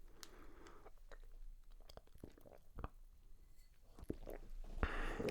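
Person drinking water close to a sensitive microphone: soft sips, swallows and wet mouth clicks, getting louder near the end.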